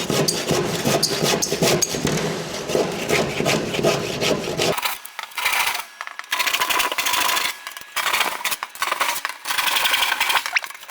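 Handsaw cutting through timber in rapid back-and-forth strokes. About five seconds in, the sound turns thinner and comes in short spells with brief pauses.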